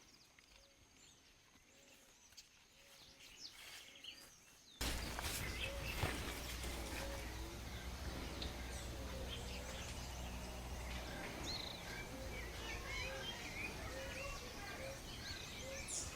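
Forest ambience with birds calling. It is faint at first, with scattered bird calls and a low note repeated every second or so. About five seconds in it jumps abruptly to a louder recording with a low rumble beneath a dense chorus of many birds chirping.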